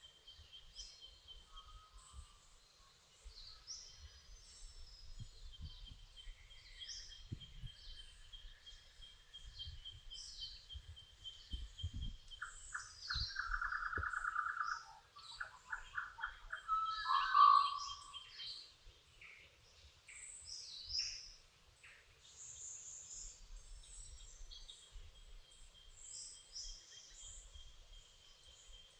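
Dawn chorus of many birds singing and chirping, with short high whistles and chirps overlapping throughout. About halfway through one bird gives a loud rapid trill, followed shortly after by a loud lower call.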